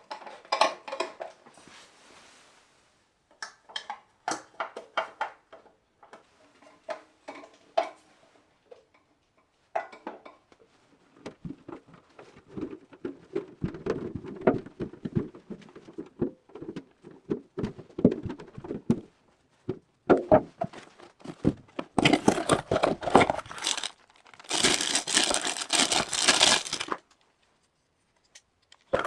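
Hand-work noises on a bench: scattered clicks and taps, a stretch of rubbing and handling, then two loud rustling, hissing passes a few seconds long near the end.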